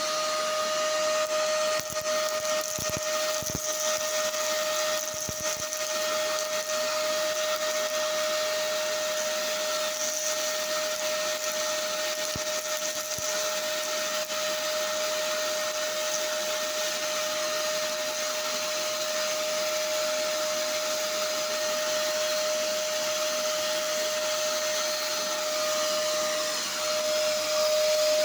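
Polaris PVC 1516 vacuum cleaner running steadily: airflow noise with a high, steady whine from the motor. A few short clicks come in the first several seconds and again around halfway, and the sound gets a little louder near the end.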